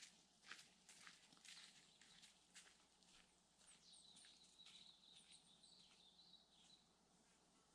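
Faint footsteps crunching on a forest track, about two a second, fading out after about three seconds. They give way to a high, thin, wavering animal call that lasts about three seconds.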